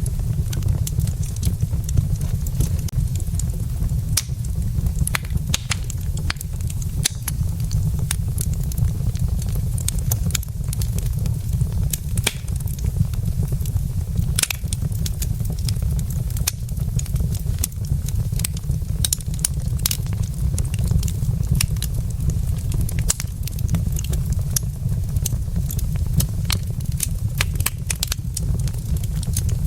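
Wood fire burning in a fireplace: many sharp, irregular crackles and pops from the logs over a steady low rumble of the flames.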